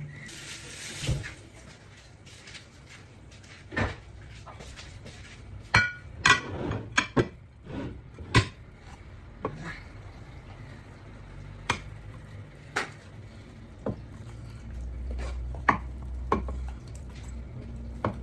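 Cutlery clinking and scraping against a plate or bowl while eating: a dozen or so sharp, irregularly spaced clinks, busiest a few seconds into the stretch.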